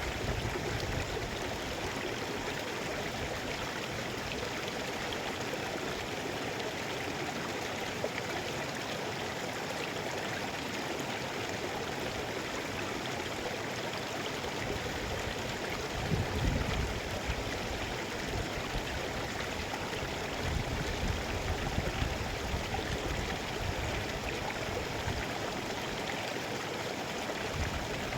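Mountain river flowing with a steady, even rush of water. Bursts of low rumble come in about halfway through and again a few seconds later.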